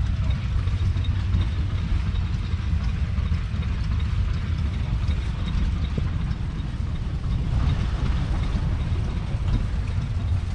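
Ford 7610 tractor's 4.4-litre four-cylinder diesel engine running steadily with a low rumble.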